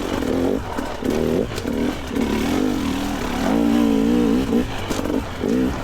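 Two-stroke dirt bike engine revving up and down in short throttle bursts while picking through a rocky section, with a longer, higher rev about three and a half seconds in.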